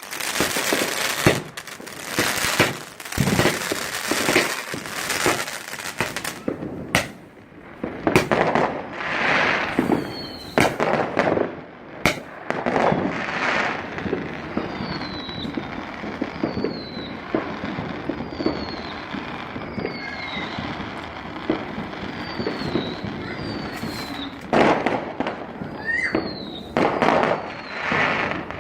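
Fireworks display: rapid bangs and crackling, then a lighter stretch with a run of short falling whistles about once a second, before heavier bangs return near the end.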